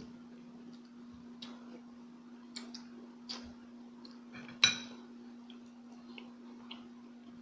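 Eating sounds: scattered small clicks of chewing and handling food, and one sharp clink of a utensil against a plate a little after halfway, all over a steady low hum.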